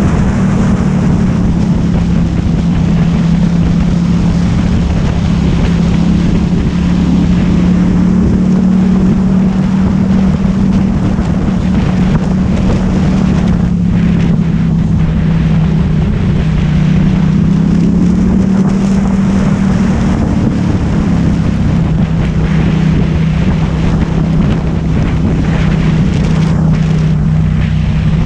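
2009 Ducati Hypermotard 1100S's air-cooled L-twin engine running at a steady cruise while being ridden, its pitch drifting slightly up and down, with wind rushing over the microphone.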